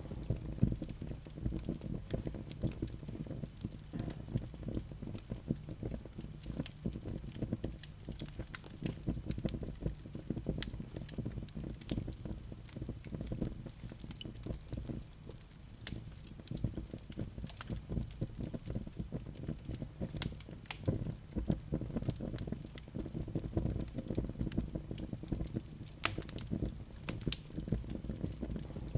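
Wood fire burning in a fireplace, with a steady low rush of flames and frequent irregular crackles and sharp pops from the burning logs.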